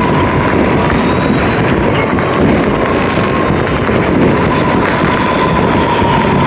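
Many fireworks and firecrackers going off at once: a loud, steady din of rumble thick with small crackles and pops. A thin steady tone runs through it.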